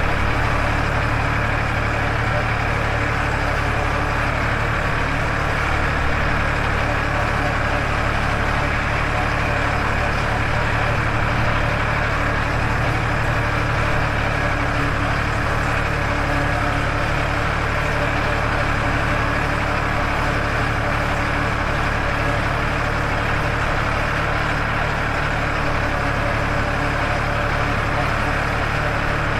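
Farmtrac 60 tractor's diesel engine running steadily at an even speed while driving.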